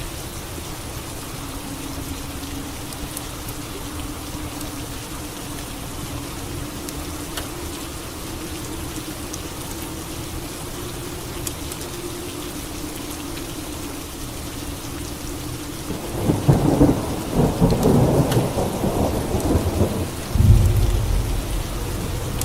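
Steady rain falling, with a faint low hum beneath it. About sixteen seconds in, a loud crackling thunderclap breaks out for a few seconds, then gives way to deep rolling thunder rumble near the end.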